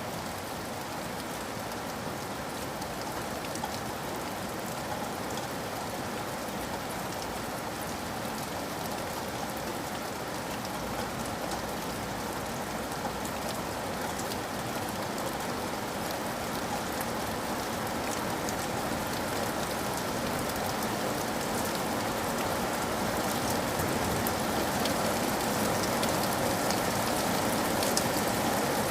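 Steady rain falling, a dense hiss with many individual drop ticks, gradually getting louder toward the end.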